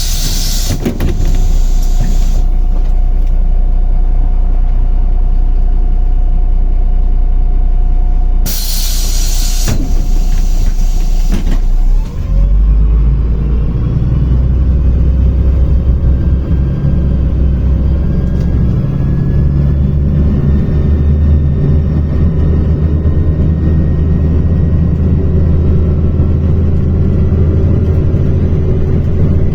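MAZ-105 city bus heard from inside: two loud hisses of compressed air from its pneumatic brakes and doors while it stands, then about twelve seconds in its diesel engine pulls away, the whine rising in pitch as the bus accelerates.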